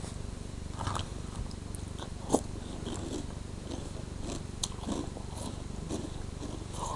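A person chewing a mouthful of Reese's Puffs cereal, with scattered small crunches and one sharper crunch a couple of seconds in, over a steady low hum.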